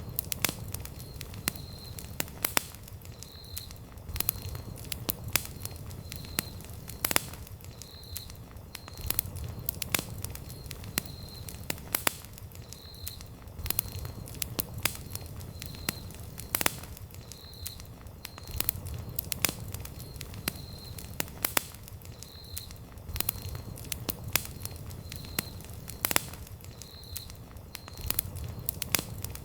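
Campfire of burning wood crackling, with irregular sharp pops over a low steady rumble of flames. A faint high pip repeats at an even pace, roughly every three-quarters of a second.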